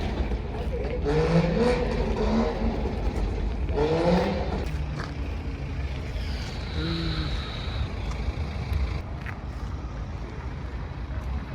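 Car meet ambience: a steady low engine rumble from cars running, with short stretches of people's voices over it.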